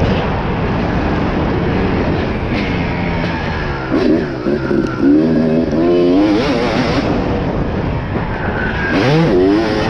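Dirt bike engines revving, their pitch rising and falling over a steady rumble, loudest in the middle of the stretch and again near the end.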